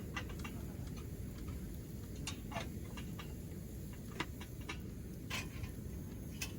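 Wood campfire burning, crackling with irregular sharp pops and snaps over a low steady rumble.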